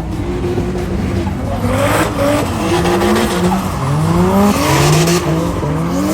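Drift car engine revving hard, its pitch climbing again and again as the throttle is worked mid-slide, over tyres screeching across the tarmac, loudest about two seconds in and near the five-second mark.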